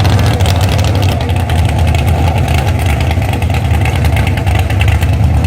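Drag car's engine idling loudly and steadily, a deep rumble.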